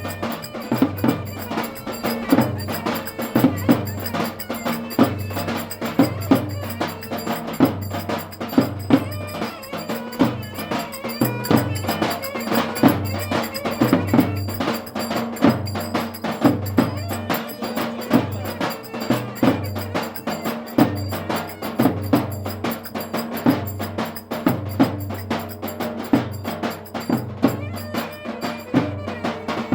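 Turkish folk dance music (oyun havası) with a steady, heavy drum beat under a continuous melody line.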